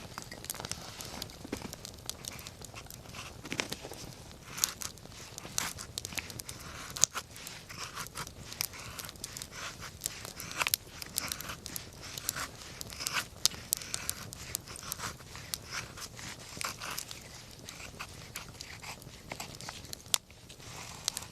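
Wood campfire burning, with frequent irregular crackles and pops of the burning wood over a faint steady hiss.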